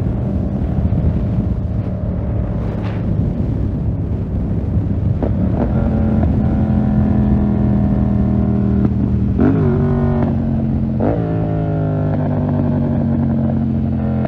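2020 Yamaha MT-07's parallel-twin engine running through a full SC-Project 2-1 exhaust while ridden at a mostly steady engine speed. Its note shifts a little about a third of the way in, then dips and climbs again twice past the middle.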